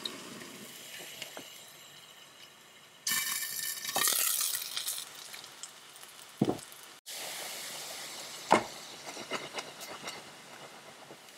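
Dumplings pan-frying in a thin flour-water-oil frying batter, sizzling with small crackles as the batter cooks down into a crisp lacy crust. The sizzle is muffled at first and turns suddenly louder and brighter about three seconds in. A few sharp knocks of pan or utensil come later.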